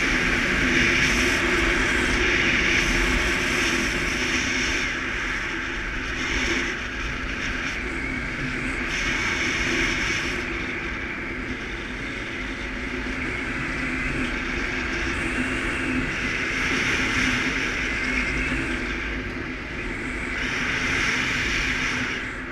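Suzuki KingQuad ATV engine running steadily under way, with a steady hum and a rushing noise over it that swells and eases.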